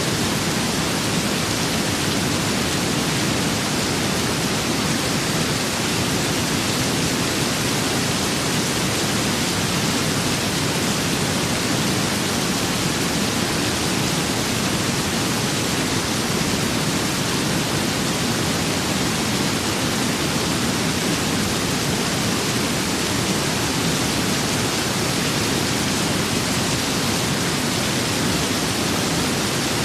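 Steady rain and wind: an even, unbroken hiss with no separate drops, gusts or changes in level.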